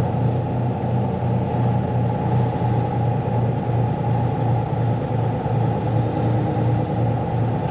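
Semi-truck engine running as the truck drives slowly: a steady low drone with an even pulsing beat about twice a second.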